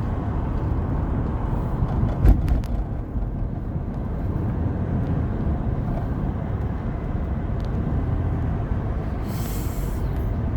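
Vehicle engine running steadily with a low rumble. There is a sharp knock about two seconds in and a brief hiss near the end.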